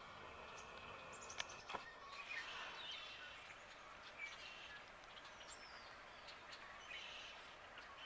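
Small birds chirping faintly, with short scattered call notes and a few gliding whistles. Two sharp clicks come close together about a second and a half in.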